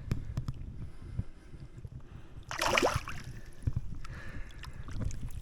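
A short, loud splash about halfway through as a pike is let go into the lake water, amid light knocks and bumps against the kayak.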